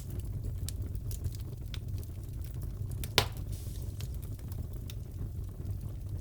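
Wood fire crackling in a fireplace: a steady low rumble with scattered small crackles, and one loud pop about three seconds in.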